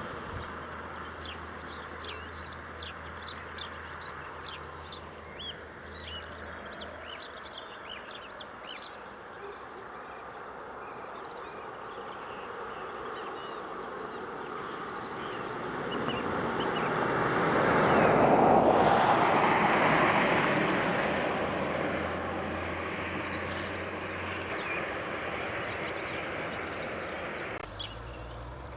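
Wild birds chirping and singing in a dawn chorus, with many short calls early on. A vehicle passes by, swelling to its loudest about two-thirds of the way through and then fading.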